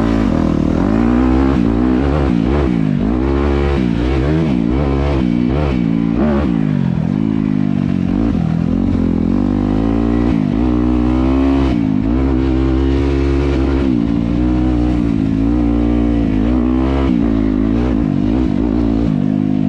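Dirt bike engine being ridden, its revs climbing and dropping again and again every second or two as the throttle is worked.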